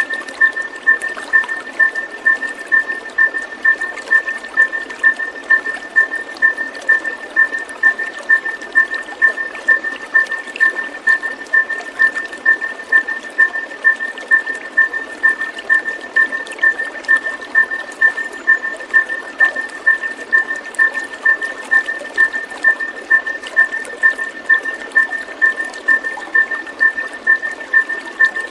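Running water trickling steadily, with a repeated chirp on one steady pitch pulsing evenly about twice a second, as in a calming nature-sound track for a caged songbird.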